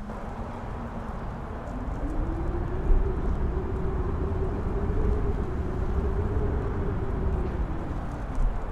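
A wind gust howling across a mountain top: a deep rumble that swells about two seconds in and eases near the end, carrying a whistling tone that rises, holds and then falls away.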